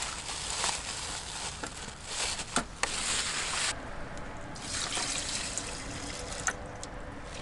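Liquid trickling and pouring, with a few small clicks; the brightest pour stops abruptly a little before halfway through.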